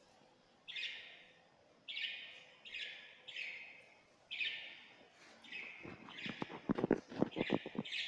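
A bird outside the window chirping: short harsh calls, about one a second. About six seconds in comes a quick, louder run of taps lasting nearly two seconds, a miniature pinscher's paws scrabbling on the hard floor.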